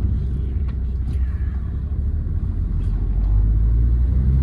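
2008 Hyundai Verna's 1.6 turbo-diesel engine running while the car drives, a steady low rumble with road noise that grows a little louder about three seconds in.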